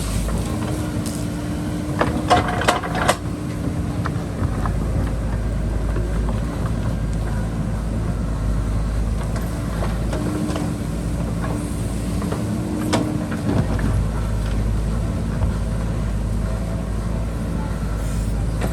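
JCB backhoe loader's diesel engine running steadily under load while digging, with a tone that swells and fades as the hydraulics work. There is a quick cluster of sharp metallic knocks about two to three seconds in and another near thirteen seconds, typical of the bucket striking rock.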